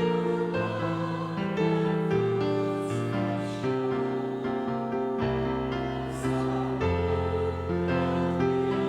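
Slow instrumental church music: sustained keyboard chords, each held for about a second before moving to the next.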